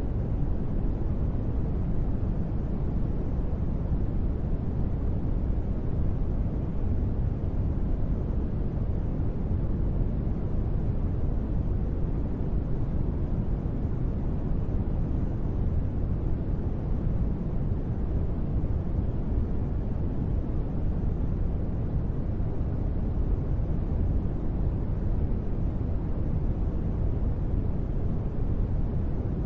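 Steady, even noise sold as gentle rain white noise, heavy in the low end with little hiss: a deep, unbroken rumble with no drops, thunder or changes.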